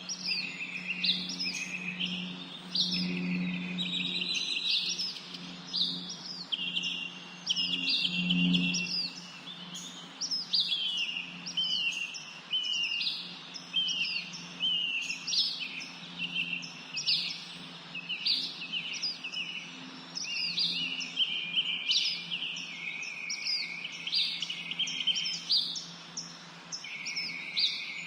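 A chorus of small birds chirping and twittering without pause, many short rising and falling calls overlapping, over a faint low steady hum.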